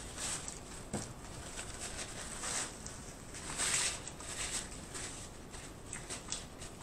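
Close-up mouth sounds of a person chewing food, with soft wet squishing and clicks. A brief rustle of hands rubbing together, the loudest sound, comes about three and a half seconds in.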